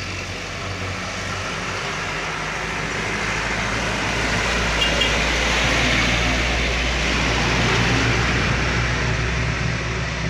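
Heavy truck's diesel engine pulling up a steep climb, growing louder as it passes close and then starting to fade.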